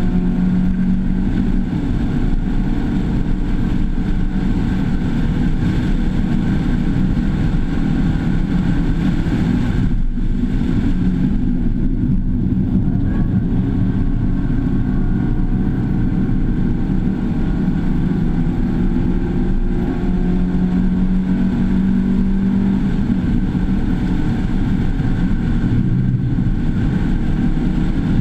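Mazda2's 1.5-litre four-cylinder engine running hard at track speed, heard from inside the cabin, its pitch climbing slowly as the car accelerates, with a brief drop about ten seconds in.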